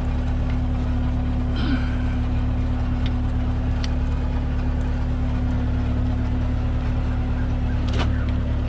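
Heavy equipment diesel engine running steadily at a constant speed, with a short sound about 1.7 s in and a few faint clicks or knocks, the clearest near the end.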